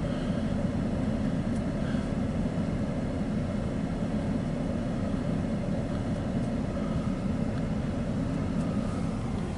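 Loaded autorack freight cars rolling past: a steady low rumble of wheels on the rails, with a few faint clicks.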